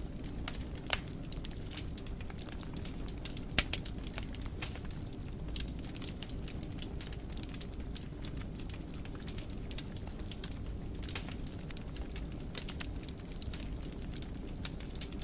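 Wood fire crackling in a fireplace: a steady low rumble of flame with frequent sharp pops and snaps, one louder pop about three and a half seconds in.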